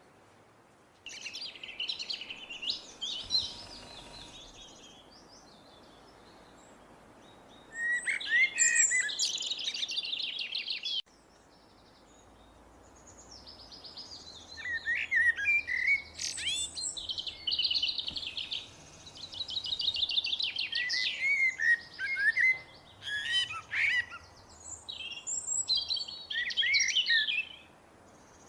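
Blackbird singing: short phrases of quick warbled notes with high twittering. One phrase comes about a second in and another around eight seconds in, then the phrases follow each other closely through the second half.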